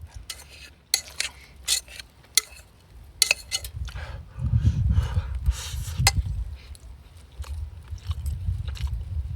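A person eating close to the microphone: chewing, with sharp clinks of utensils against a bowl. Low rumbling noise swells between about four and seven seconds in and again near the end.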